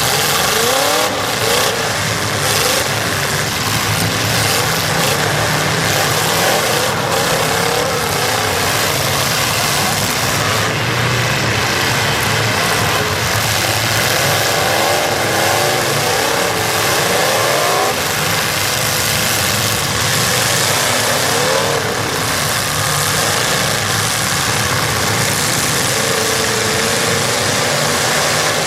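Several demolition derby car engines running loudly and revving over and over, their pitch rising and falling, with a few sharp knocks.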